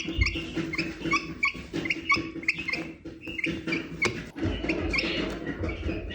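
Young chicks peeping: many short, high cheeps, several a second, with some low handling rustle near the end.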